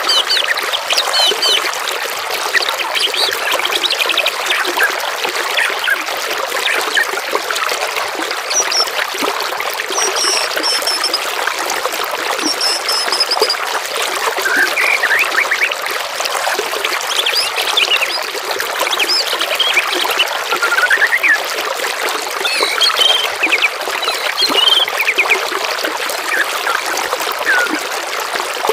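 Running water trickling steadily, with songbirds chirping and singing in short, scattered phrases over it.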